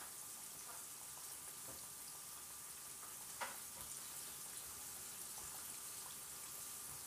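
Flour-dredged chicken strips frying in oil in a covered skillet: a steady soft sizzle with small scattered pops, and one sharper pop a little over three seconds in.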